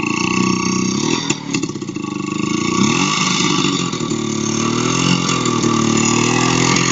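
Soviet IZh two-stroke motorcycle engine running and being revved, its pitch rising and falling, with a short sharp knock and dip in level just over a second in before it settles to a steadier run.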